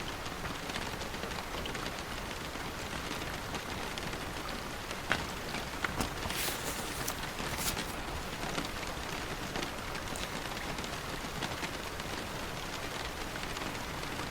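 Steady rain falling, an even hiss throughout, with a few brief crisp sounds between about five and eight seconds in.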